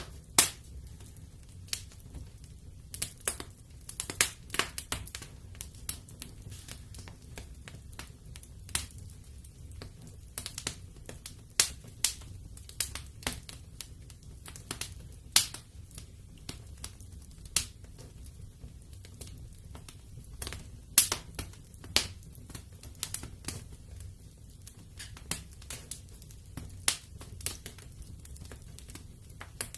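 Wood fire burning in a fireplace, crackling with sharp, irregular pops several times a second over a low, steady rumble.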